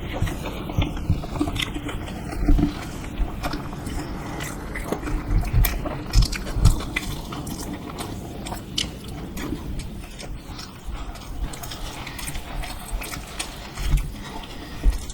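Close eating sounds: biting and chewing dosa, with many scattered small clicks and a few low thumps.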